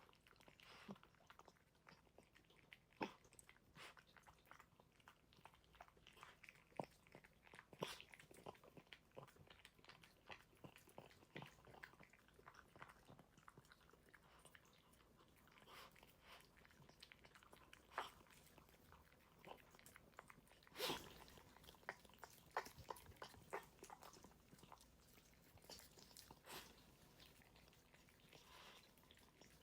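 A dog eating its food: faint, irregular chewing and crunching with sharp clicks as it bites, some louder bites scattered through.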